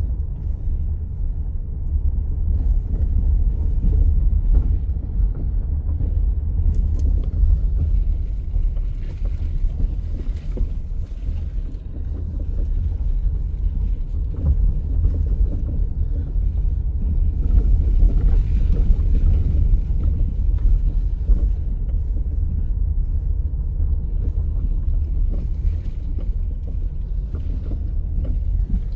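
Car rolling slowly down a bumpy gravel driveway: a steady low rumble of tyres on gravel, with faint crackling from the stones.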